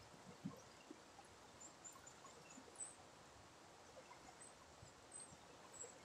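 Near silence: faint outdoor ambience, a soft even hiss with scattered small ticks and a few faint, short, high chirps.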